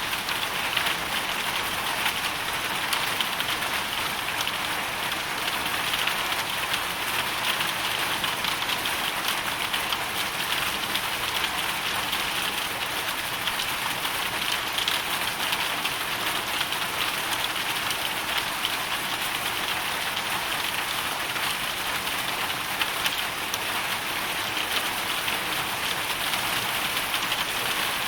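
Hailstorm: hail and rain falling steadily, a dense, unbroken hiss of many small hits with no let-up.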